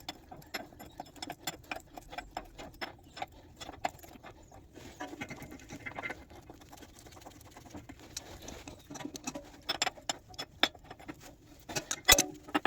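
Irregular light metallic clicks and scrapes of hand work on metal parts, with a sharper knock near the end.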